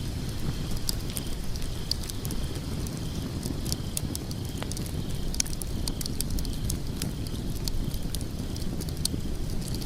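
Wood fire of burning logs in a fireplace: a steady low rumble of flames with frequent sharp, irregular crackles and pops.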